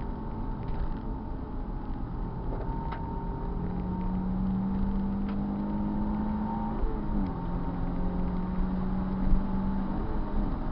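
Car engine pulling under load at track speed over heavy low rumble. Its pitch climbs slowly, drops sharply about seven seconds in, then climbs and drops again near the end.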